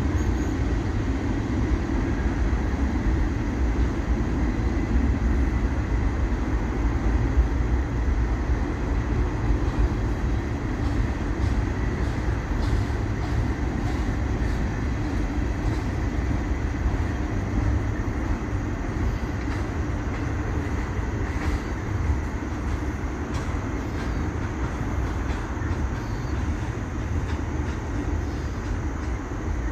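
Freight train cars rolling past on the rails: a steady low rumble with a few faint clicks, easing slightly near the end.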